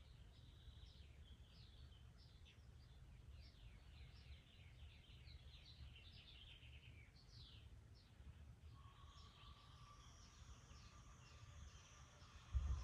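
Faint birds chirping in the background over a low rumble, with more calls joining about nine seconds in; a short low thump near the end.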